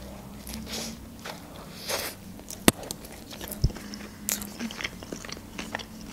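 Biting into a hot dog in a soft bun with fresh lettuce, then chewing close to the microphone: soft wet crunches with a few sharp mouth clicks.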